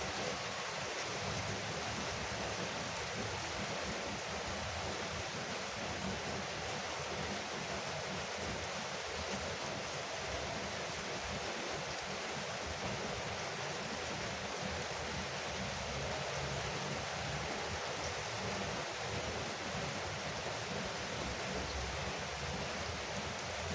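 Heavy rain falling on a veranda roof, a steady, even rush of drumming drops.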